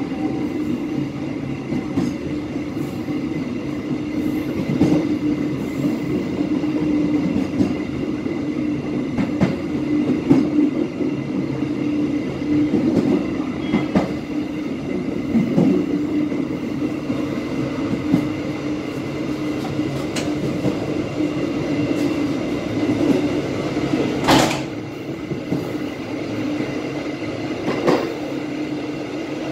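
KA Bengawan passenger train running along the line, heard from the rear of the last carriage: a steady rumble of wheels on rail with scattered clicks over rail joints, and one sharper click near the end.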